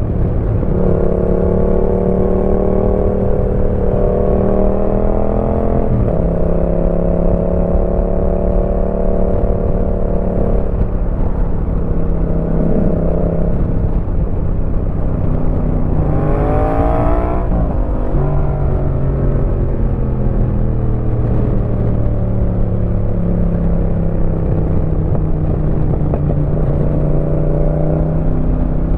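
Yamaha MT-07's 689 cc parallel-twin engine through a Roadsitalia aftermarket exhaust, ridden on the road: it holds a steady pitch while cruising, drops at a gear change about six seconds in, then revs up sharply in a short burst around the middle and falls away again.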